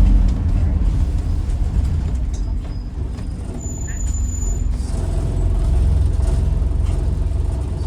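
Scania N94UD double-decker bus's engine droning, heard on board while riding; the drone eases off over the first few seconds, then builds again about five seconds in as the bus pulls harder.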